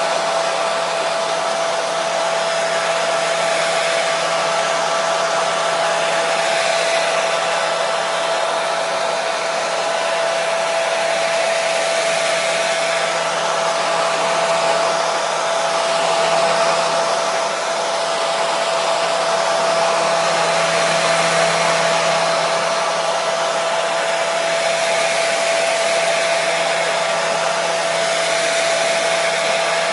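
Hair dryer running steadily: an even rush of blown air with a constant whine from the motor and fan.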